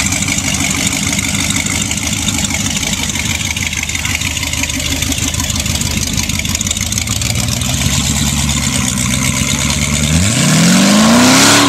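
Hot rod's supercharged V8 idling with a steady low pulse as the car creeps along, then revved hard near the end, the pitch climbing steeply.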